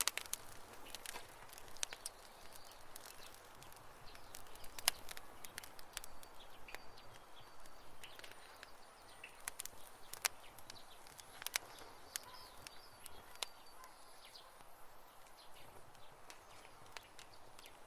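Campfire burning, with irregular sharp crackles and pops over a soft hiss. A few faint high chirps come in the background partway through.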